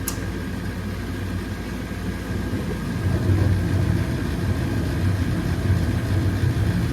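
Carrier 80-percent gas furnace running through its heating start-up, a steady low motor hum that grows louder about three seconds in. The main blower is still on its start-up delay.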